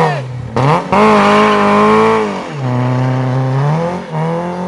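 Rally car engine under hard acceleration: the revs climb, then drop sharply at each of three gear changes and climb again.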